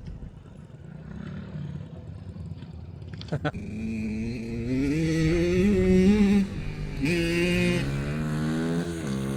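BRZ 110cc semi-automatic pit bike's single-cylinder four-stroke engine being ridden. It runs faint at first, then grows louder as it revs up, with its pitch dropping at about six and a half seconds and again near the end, as the rider shifts or backs off the throttle.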